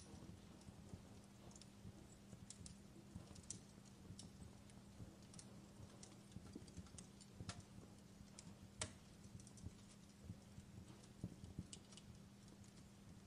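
Fireplace crackling, faint: irregular small pops and snaps at uneven intervals over a faint steady low hum, with two slightly louder pops in the middle.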